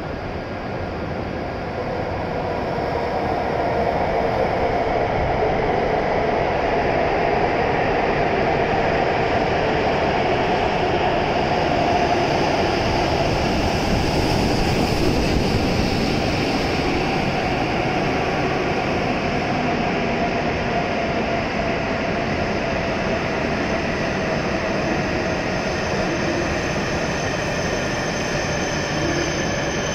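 E7-series Shinkansen train running in alongside the platform and slowing to a stop: a growing rush of wheels and air that is loudest midway, with a whine that slowly falls in pitch as it decelerates.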